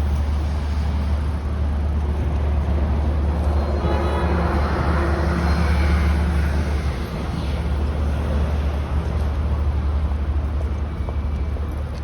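Street traffic heard from a moving bicycle: a steady low rumble, with a motor vehicle passing close about four seconds in, its engine hum and tyre noise swelling and then fading out about three seconds later.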